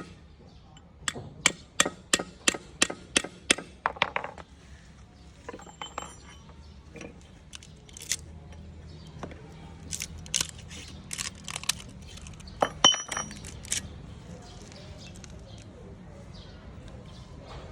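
A quick run of sharp taps, about three a second for a few seconds, then scattered metallic clinks and knocks: hand tools striking metal parts while an old compressor motor is worked on.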